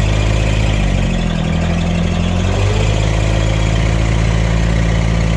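Vehicle engine running steadily, its pitch dipping briefly about a second in and rising again near the middle.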